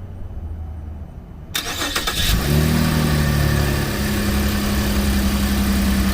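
2013 Cadillac CTS's 3.0-litre V6 cranked by the starter for under a second, catching and starting, flaring briefly and then settling into a steady idle.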